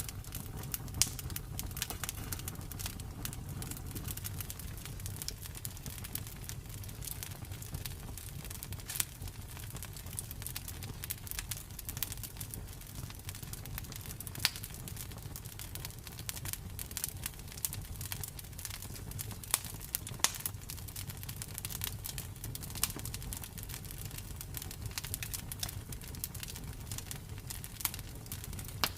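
Campfire burning, wood crackling with irregular sharp pops over a steady low rumble of the flames.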